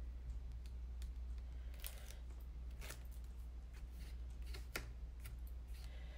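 Cardstock and tape being handled and pressed down: scattered light scrapes and clicks, a few sharper ones spread through, over a steady low hum.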